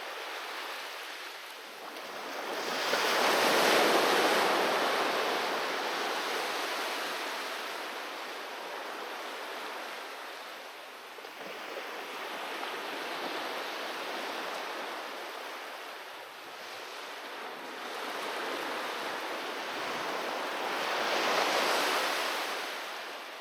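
Sea waves washing onto a beach, rising and falling in slow surges, with the loudest breakers about three to four seconds in and again near the end.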